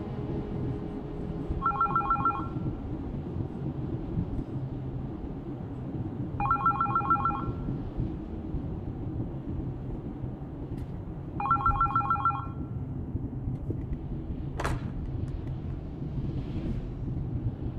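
Telephone ringing three times, each ring a short rapid trill, about five seconds apart, over a steady low rumble. A single sharp click comes near the end.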